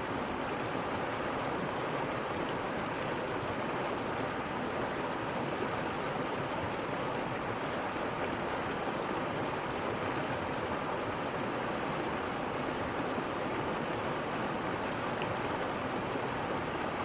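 Waterfall: falling water rushing in a steady, even roar of noise with no breaks.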